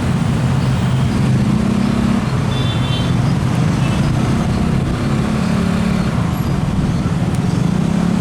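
Train passing close at speed: a loud, steady rush and rumble of wheels on rail over a low drone whose pitch steps up and down.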